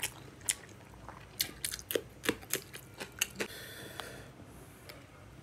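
Close-up chewing of rice and prawn curry eaten by hand, with a quick run of sharp wet clicks and crunches over the first three and a half seconds, then quieter.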